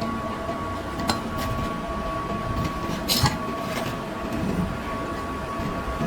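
A few sharp metallic clinks of metal parts or tools being handled, the loudest about three seconds in, over a steady mechanical hum.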